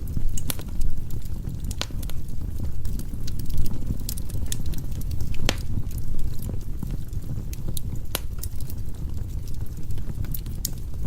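Firewood burning in a fireplace: irregular sharp crackles and pops, several louder ones among them, over a steady low rumble.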